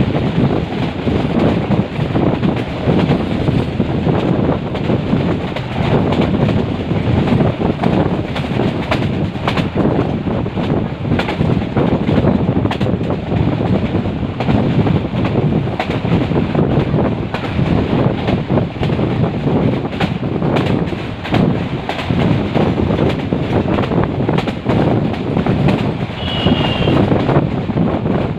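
Metre-gauge passenger train running at speed, its wheels clattering over the rail joints in a dense, irregular racket. A brief high chirp sounds near the end.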